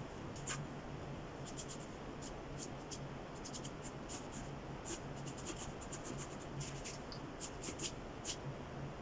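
Pencil sketching on paper: many quick, light, scratchy strokes coming in irregular runs.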